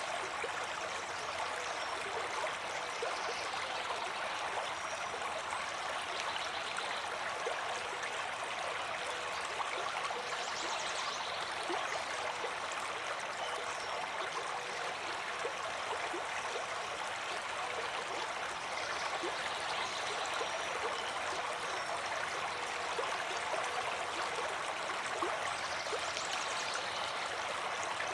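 Flowing stream water, a steady unbroken rush and babble with no change in level.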